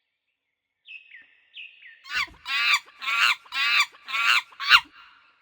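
Gopher calls: a few faint short high chirps that drop in pitch, then five loud squeaky calls about half a second apart, each sliding down in pitch.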